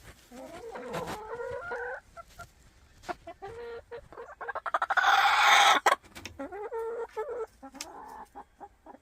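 An upset hen making drawn-out, wavering complaining calls, with a loud harsh squawk about five seconds in.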